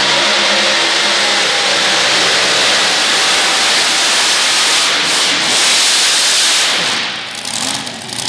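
Competition pulling tractor's engine running at full power during a pull, loud and dense, dropping away sharply about seven seconds in.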